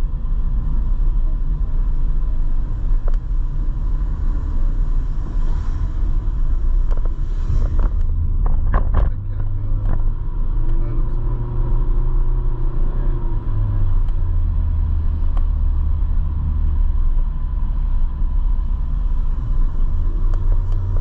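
Motorcycle riding uphill: a steady low rumble of engine and wind noise on the microphone, with a few sharp knocks about eight to nine seconds in.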